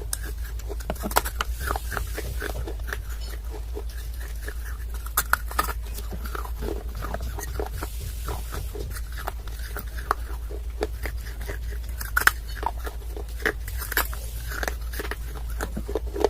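Close-miked biting and chewing of hard clay, heard as irregular sharp crunches and snaps over a steady low hum.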